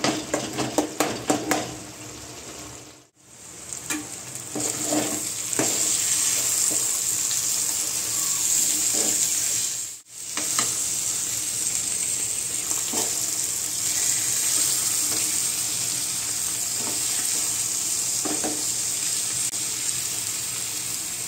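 A spoon stirring and clicking against a cooking pan, then a steady sizzle of food frying in hot oil. The sound breaks off briefly about three seconds in and again about ten seconds in, with a few soft knocks of the spoon over the sizzle.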